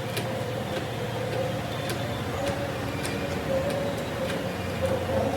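Steady machine hum with scattered, irregular sharp clicks and ticks.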